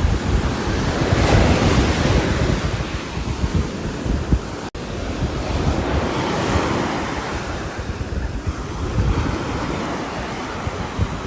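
Steady rain on a roof heard as a dense hiss, swelling and easing like gusts of wind, with a momentary dropout a little under five seconds in.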